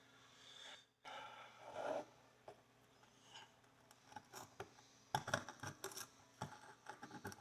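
A pick scraping and clicking against a horseshoe as dirt is picked out of its nail groove, in quick, irregular strokes that start about five seconds in, after a few faint rubs.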